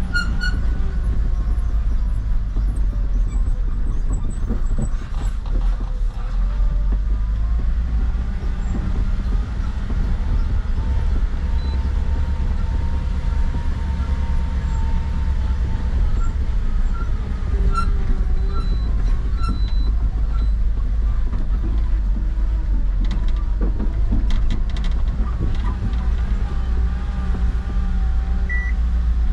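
Truck running along the road: a steady, loud low rumble of engine and road noise, with a faint wavering whine above it.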